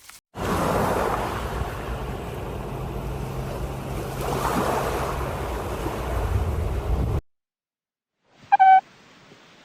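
A steady rushing noise with a low rumble, like wind on the microphone, that cuts off abruptly. After a pause, a short, loud animal call comes near the end.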